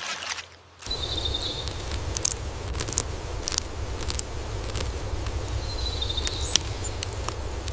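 Outdoor nature ambience: after a brief lull, a steady soft rush sets in about a second in, with scattered small ticks and two short high chirps, one soon after it starts and one about six seconds in.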